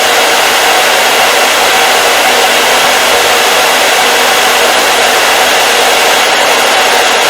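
Hair dryer running steadily on its fan: a loud, even rushing hiss with a faint steady motor hum.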